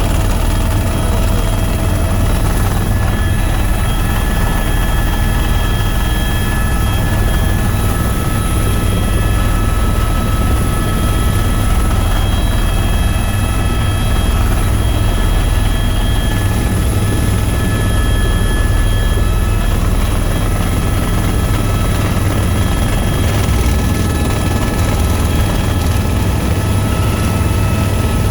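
Tour helicopter in flight: a loud, steady, low rotor and engine drone with faint steady whine tones above it, unchanging throughout.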